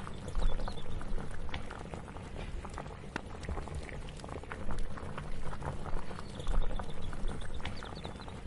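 Kitchen cooking ambience: liquid bubbling in a pot, with many scattered light clicks and knocks of utensils and a few louder low thumps.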